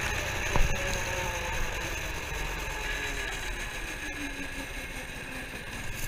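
Minibike engine running, heard over a rough, steady rush, with one sharp knock about half a second in.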